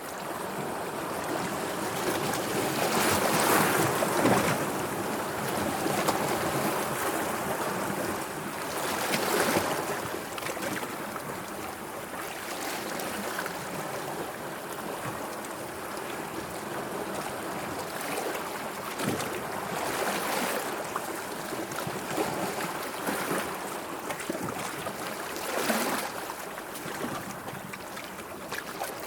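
Sea waves washing in and draining back, an even watery hiss that swells in surges every few seconds, loudest a few seconds in and again at about nine seconds.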